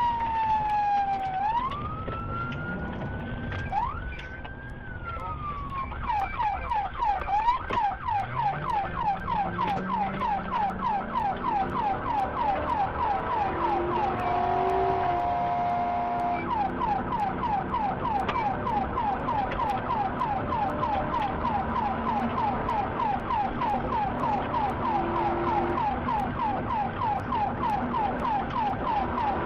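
Police car siren: a slow wail sweeping down and up, switching about six seconds in to a rapid, evenly repeating yelp that runs on. A brief steady tone sounds midway.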